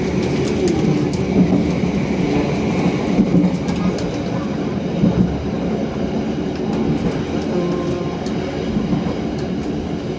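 Rumble of a passenger train coach running along the track: steady noise of wheels on rail, with scattered light clicks.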